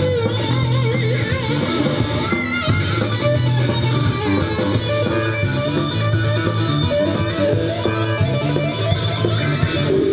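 Blues band playing: electric guitar and bass guitar, with wavering high notes about one to three seconds in.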